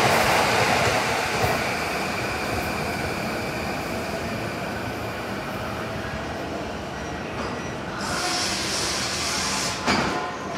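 Electric train running on rails, its rumble easing off steadily, then a burst of hiss and a short knock near the end.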